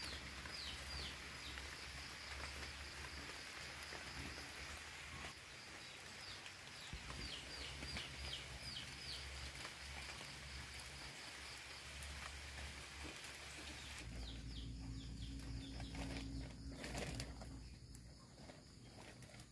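A bird calling in quick series of short falling chirps, near the start and again about seven to nine seconds in, over a steady low rumble. The chirping stops about fourteen seconds in, where the background sound changes.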